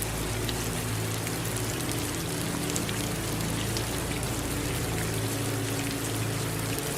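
Steady rain and running water, with scattered drop ticks and low sustained tones underneath.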